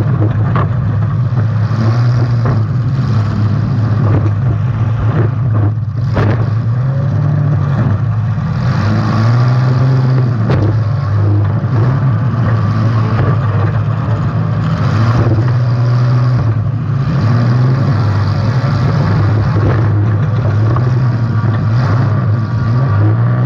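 Demolition derby car engine running hard, its pitch repeatedly rising and falling as it revs, with a few sharp knocks.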